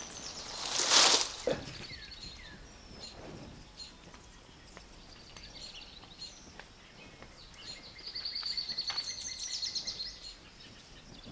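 A bundle of dry palm fronds rustling and crackling as it is set down, a loud, brief rush about a second in. Birds chirp around it, with a rapid trilling song near the end.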